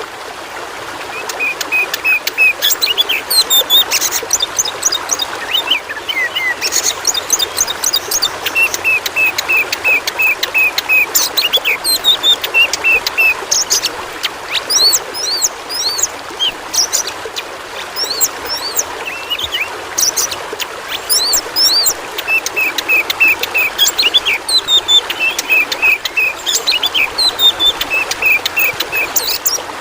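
Oriental magpie-robin (kacer) singing a varied song of sharp whistled notes and quick rising sweeps, with runs of rapidly repeated short notes. Steady running water trickles underneath.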